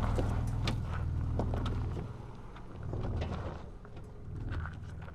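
Ford Ranger Raptor's 3.0-litre petrol V6 engine running during off-road driving. Its low note is strong at first, eases about two seconds in, then swells and falls back twice, with scattered sharp clicks and knocks throughout.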